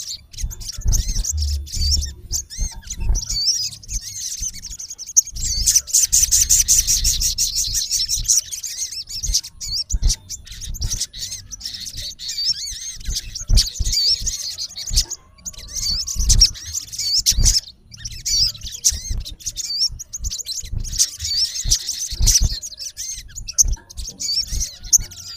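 Male olive-backed sunbird giving rapid, high-pitched chirping calls in repeated bursts: a harsh call to challenge a rival male. Low thumps sound underneath at times.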